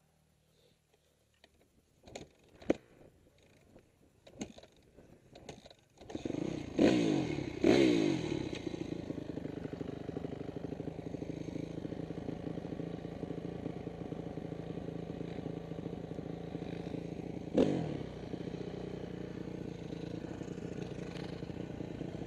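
Dirt bike engine: a few knocks and clatters, then the engine starts about six seconds in, is revved twice, and settles into a steady run with one more short blip of throttle near the end.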